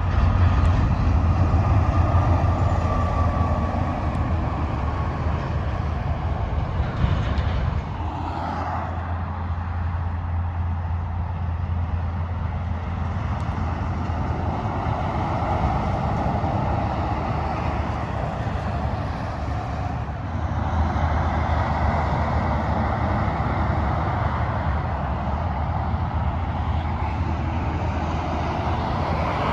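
Freeway traffic with heavy trucks passing at highway speed: continuous engine and tyre noise that swells as vehicles go by, loudest in the first few seconds and again about two-thirds of the way in.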